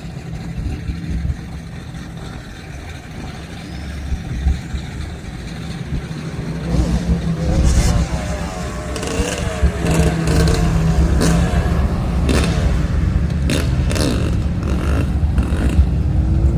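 Vehicle engine running with some revving, a low rumble that grows louder about halfway through, with a few sharp clicks over it.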